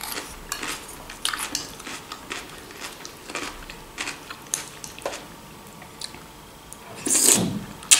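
Close-miked chewing of a crunchy vegetable salad of cucumber, bell pepper, onion and lettuce dressed with mayonnaise: irregular wet crunching and smacking, with a louder noise about seven seconds in.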